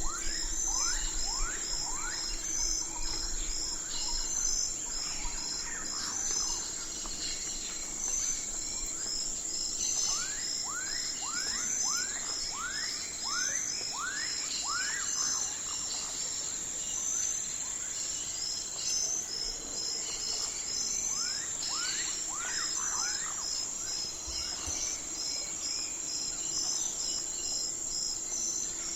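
Night forest ambience: a steady high-pitched insect drone with crickets chirping in a regular pulse. Over it come runs of short, quickly sweeping animal calls, strongest about a third of the way in and again about three quarters through.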